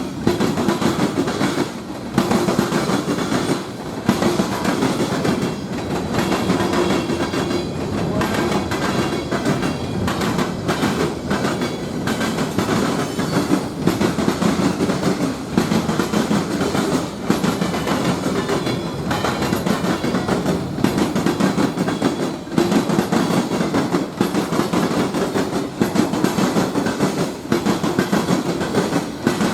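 A train rolling past at close range: a steady rumble of railcars with a run of clicks and clacks as the wheels pass over the rail joints.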